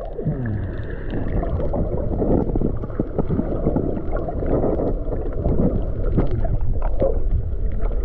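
Muffled rushing water with wind buffeting the microphone, a dense low noise with irregular crackles and splashes.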